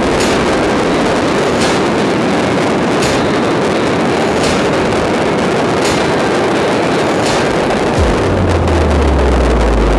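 Beehive fireworks barrage: a loud, steady roar of massed bottle rockets firing into the crowd, with sharp cracks about every second and a half.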